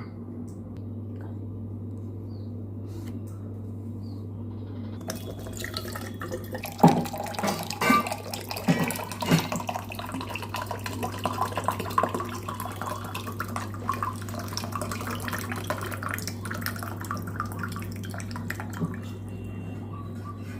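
Coconut water pouring and splashing out of a freshly opened coconut. It starts about five seconds in, is loudest a couple of seconds later with sharp splashes, and thins out over the last few seconds over a steady low hum.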